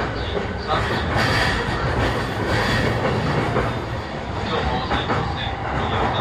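Running noise of a JR East E233-7000 series electric train, heard from inside its motor car: wheels on rails and the car's running gear, a steady loud rumble.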